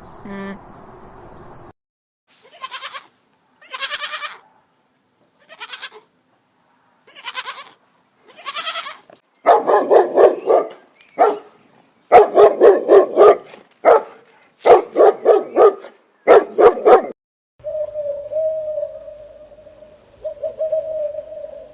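Goats bleating: a run of loud, wavering bleats in quick groups through the middle, after a few fainter, thinner calls. Near the end comes one long, steadier call.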